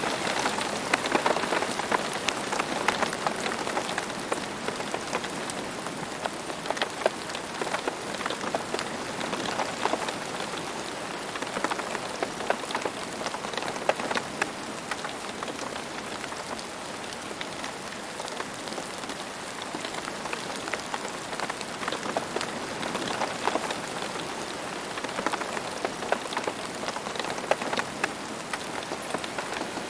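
Steady rain falling on the ground, a dense patter of many raindrops with individual drops ticking through it.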